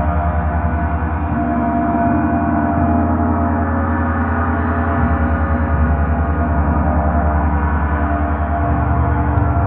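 A large gong played continuously as a gong wash: a dense, steady drone of many ringing tones with a fast pulsing beat in the low notes, and the low notes change every few seconds.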